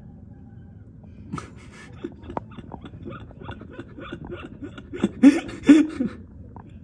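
People laughing in short breathy bursts that grow louder, with two loud shrieking laughs near the end.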